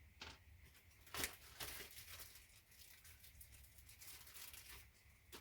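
Faint crinkling and rustling of a plastic bag with light clicks, as small hardware is handled and sorted; the loudest rustle comes about a second in, over a steady low hum.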